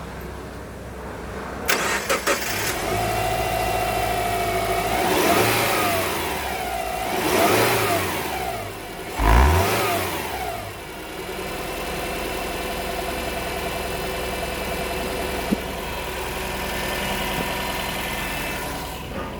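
2007 Subaru Impreza's flat-four boxer engine cranking briefly and starting about two seconds in, then idling. It is revved three times, each rev rising and falling back, and then idles steadily.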